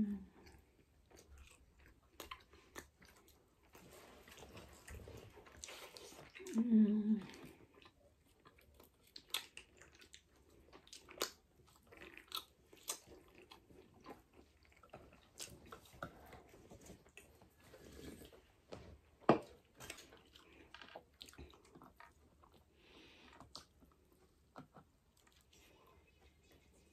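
Close-up eating sounds of a person biting and chewing pizza: irregular small clicks and crunches from the mouth. A brief vocal sound about seven seconds in, and one sharp click a little past the middle.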